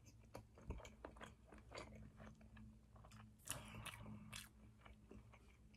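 Faint close-up chewing of a roasted cauliflower pita wrap: soft mouth clicks scattered throughout, a little louder about three and a half seconds in, over a steady low hum.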